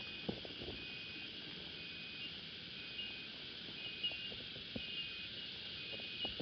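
Steady high insect hiss from cicadas in the trees, with a high note about half a second long repeating about once a second, and a few faint low knocks.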